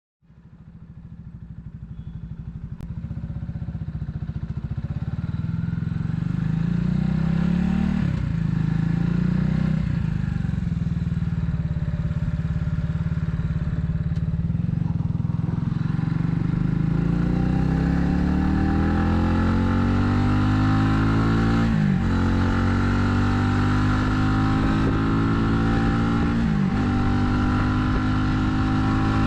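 Italika 250Z motorcycle engine under way, the sound fading in at the start. The revs climb steadily and drop sharply at each upshift, about four times.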